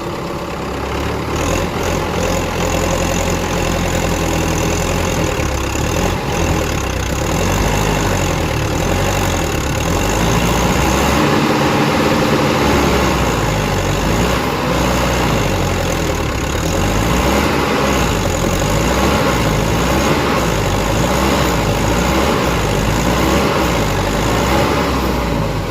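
Tractor diesel engine running, its speed rising and falling again and again.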